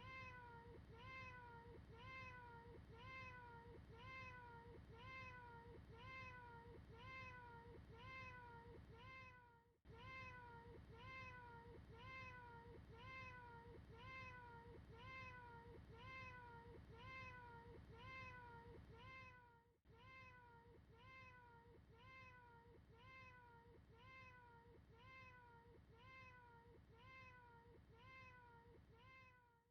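A short cat meow looped over and over, each call the same rise and fall in pitch, about one and a half a second. The repetition breaks briefly about ten and twenty seconds in. It is quiet, with a low hum underneath.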